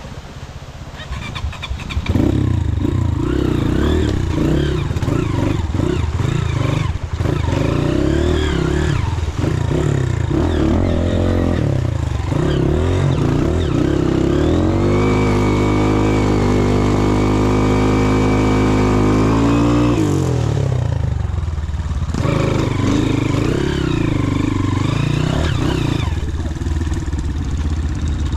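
Motorcycle engine revved hard and repeatedly while the bike is bogged in mud, holding high revs for several seconds near the middle before dropping and revving again.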